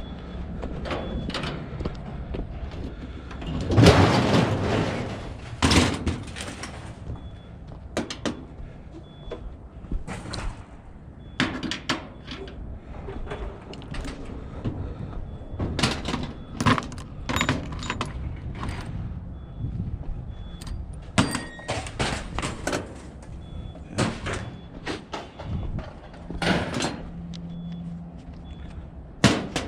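Irregular knocks, clanks and scrapes of metal being handled and pulled apart, likely a scrap clothes dryer being stripped, with a longer, louder scraping rush about four seconds in.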